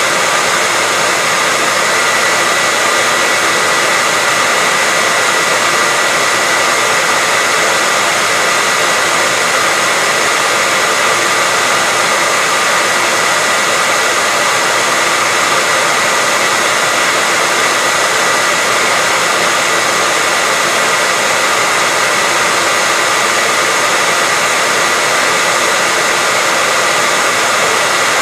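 Hair dryer running steadily as white noise: an even, unchanging rush of air with a faint steady whine in it.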